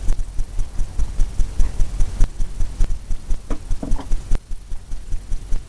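Paint brush tapping rapidly against a stretched canvas, a fast run of dull low thumps.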